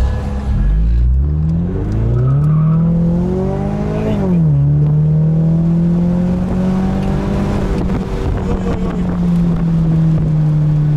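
Ford Mustang engine heard from inside the open-top car as it accelerates. The revs climb for a few seconds, drop sharply at a gear change about four seconds in, then hold a steadier pitch as the car keeps pulling.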